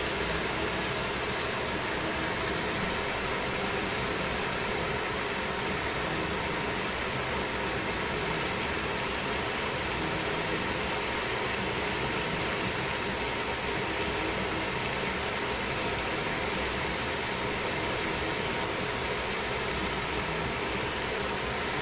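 Chicken and cabbage frying in a stainless steel pan, a steady sizzling hiss with a faint even hum underneath.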